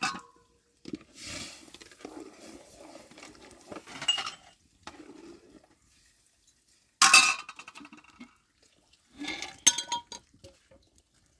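Dishes and glassware clinking and clattering as they are handled: several sharp clinks, the loudest about seven seconds in, with softer clatter between them.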